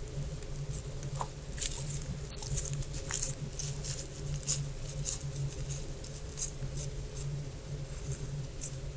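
Steady low electrical hum from a security camera's audio, with scattered light clicks and pattering ticks over it.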